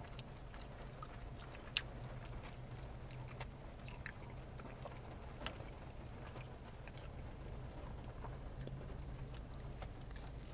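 Faint chewing and mouth sounds of people eating burgers: a scatter of soft clicks and smacks over a steady low hum.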